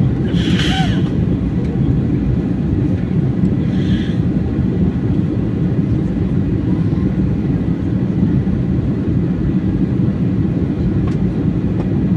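Airliner in flight, its engines and airflow making a steady low rumble.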